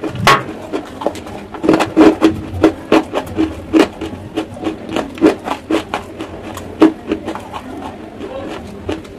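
Close-miked chewing of chalk: a run of sharp, irregular crunches, about two to three a second.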